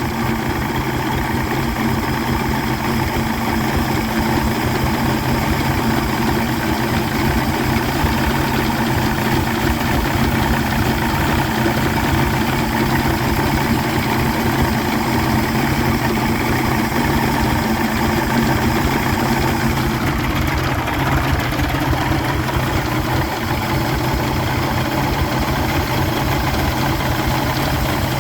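1985 Yamaha 150 hp V6 oil-injected two-stroke outboard idling steadily, running for over ten minutes without getting hot.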